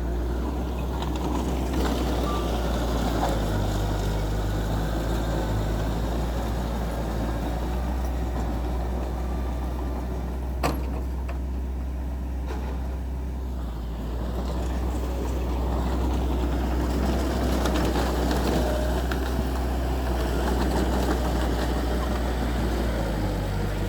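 Heavy diesel engine of earthmoving machinery running steadily under load, growing a little louder about fifteen seconds in. One short, sharp knock comes about ten seconds in.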